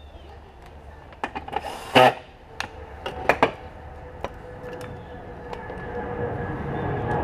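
Clicks and sharp knocks of hand tools on the BMW M54 intake as it is bolted back down, the loudest knock about two seconds in. After that, a steady hum sets in and grows gradually louder.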